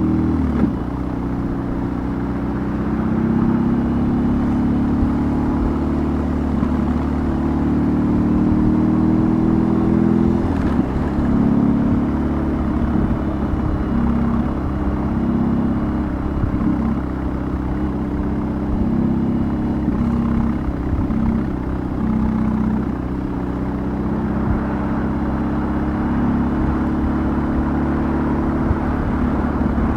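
BMW R18's big boxer twin with a custom exhaust, under way on the road. The engine note climbs steadily for about ten seconds, drops sharply just after ten seconds in, then runs on at a lower pitch that rises and falls with the throttle.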